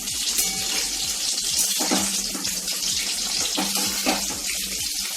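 Battered chicken pakoras deep-frying in hot oil: a steady, dense sizzle with lots of small crackles, the pieces just turned over with one side fried.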